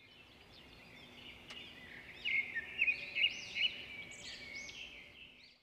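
Birds chirping and calling, many high overlapping calls with a few louder notes in the middle; the sound fades in at the start and fades out near the end.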